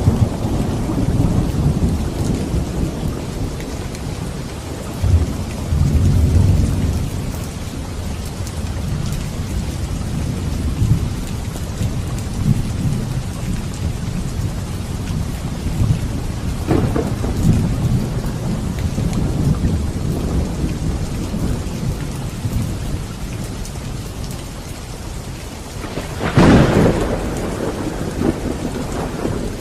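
Steady heavy rain with thunder rolling low underneath. A sharp crack of thunder comes about 17 seconds in, and a louder clap near the end.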